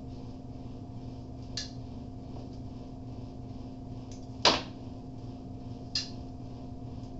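Three short clicks of small hand tools on a workbench over a steady electrical hum. The middle click, about halfway through, is the loudest and has a brief falling swish.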